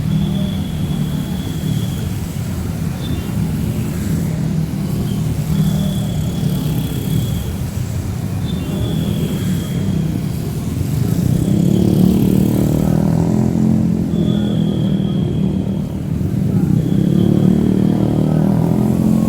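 Motorbike and car traffic on a wet city street in heavy rain: engines rumble steadily under the hiss of rain, growing louder as vehicles pass about two-thirds of the way through and again near the end. A thin high tone comes and goes in short stretches.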